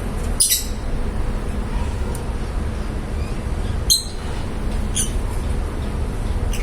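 Lovebirds giving three short, high chirps, about half a second, four and five seconds in, over a steady low rumble.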